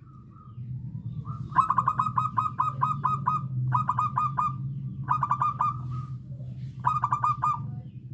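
Zebra dove singing: four runs of quick staccato cooing notes, a longer run of about nine notes followed by three shorter runs of about five notes each.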